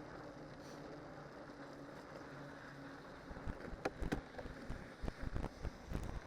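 Cyclocross bike on spiked winter tyres rolling downhill, with a steady tyre hum. From about three seconds in come a run of sharp knocks and rattles with low thumps as the bike jolts over rough ground.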